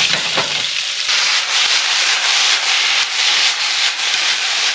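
Strips of skate wing sizzling in a hot skillet as they brown: a steady hiss with faint crackles.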